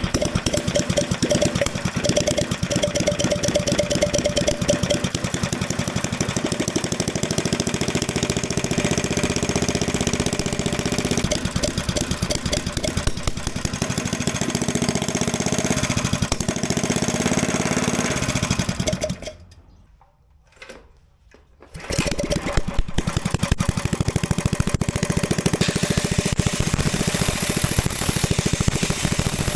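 Small mini bike engine running with a rapid, even firing beat. About two-thirds of the way through it cuts out for about two seconds, then runs again.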